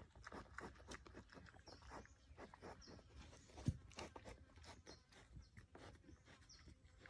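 Faint rustling and light knocks, with one sharp knock about halfway through. Faint short high chirps recur.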